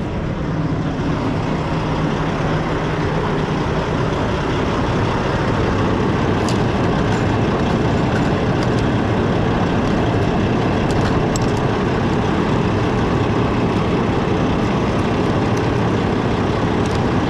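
Semi truck's diesel engine idling steadily, with a few light clicks over it.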